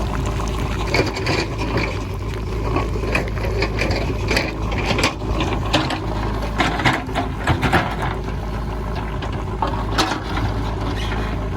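JCB 3DX backhoe loader's diesel engine running steadily under load, with frequent sharp knocks and clatter of stones and rock as the bucket digs into a stony hillside.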